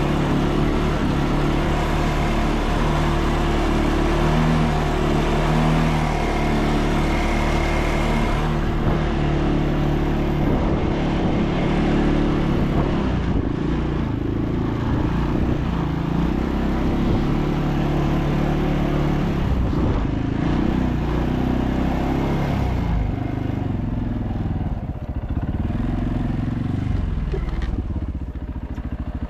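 ATV engine running while riding, its note shifting up and down with the throttle.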